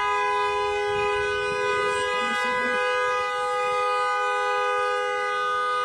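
A horn-like chord of several steady tones, held at an even level without a break.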